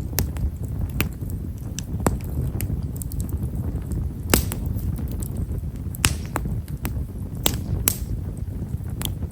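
Campfire of himeshara (Stewartia monadelpha) firewood crackling: small, fine, irregular pops over a steady low rumble, with a few sharper snaps about four and six seconds in and a couple more near eight seconds.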